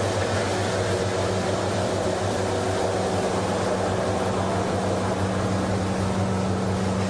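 Machinery of a PE/PP plastic washing line running steadily: a constant mechanical drone with a low hum.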